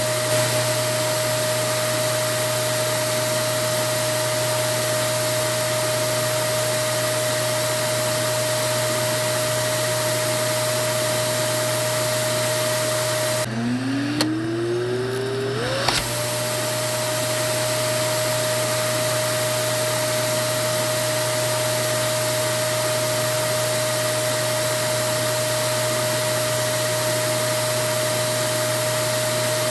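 Vacuum cleaner running with a steady rushing drone and a constant whine. About halfway through the sound cuts out abruptly, then the motor spins back up with a rising whine over about two seconds and carries on steadily.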